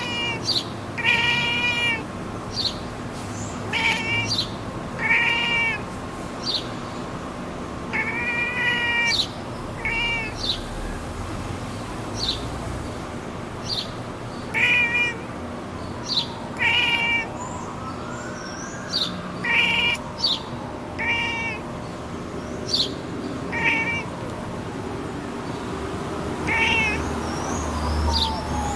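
Domestic cat chirping at birds: a run of short, pitched chirrups, one every second or two.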